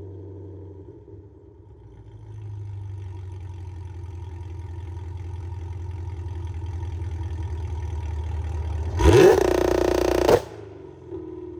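Camaro ZL1's supercharged 6.2 L V8 through its exhaust, running at low revs with a steady low drone that slowly grows louder. About nine seconds in it opens up with a sharp rising rev, much louder, for about a second and a half, then cuts off suddenly.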